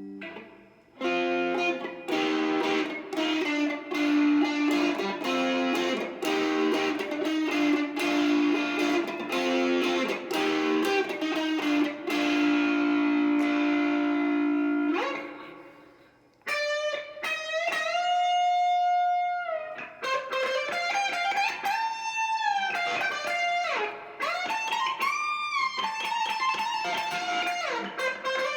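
Classic Vibe '70s Stratocaster electric guitar played through a Marshall MG30DFX amplifier. First comes a fast riff of quickly repeated picked notes, which ends in a slide down and a brief break about halfway. Then come held lead notes with string bends and vibrato.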